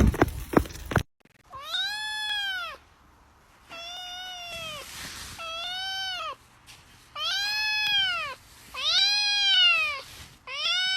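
A cat meowing repeatedly: about six long meows, each rising and then falling in pitch, with short gaps between them.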